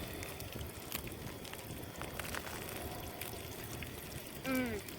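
Steady rush of water, the flow at the base of the dam, with a few faint clicks and a short pitched sound falling in pitch near the end.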